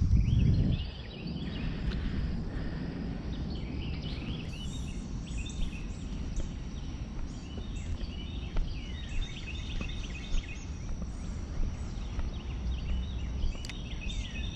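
Birds chirping and singing in short repeated phrases over a steady low outdoor rumble, with a brief low thump in the first second.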